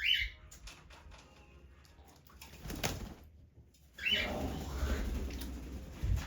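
Pet parrot flapping and shaking its wings during a bath, with a short high call at the start and another about four seconds in.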